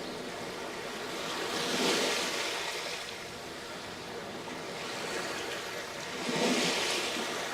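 Sea waves breaking on a sandy beach: a steady wash of surf with two waves cresting, about two seconds in and again near the end.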